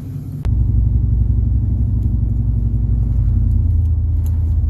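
Low engine and road rumble heard from inside a car. A sharp click about half a second in, then the rumble steps up louder and holds steady as the car gets moving.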